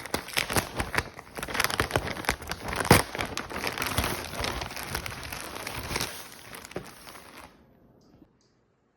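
Irregular crinkling and crackling with many sharp clicks, fading out about seven and a half seconds in.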